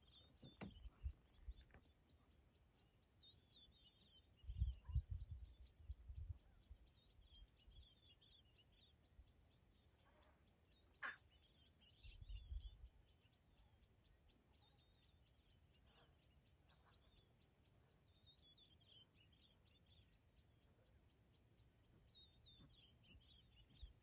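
Near silence with faint birdsong, short chirping phrases repeating every few seconds. A few low thumps break in, the loudest about five seconds in, with a single sharp click near the middle.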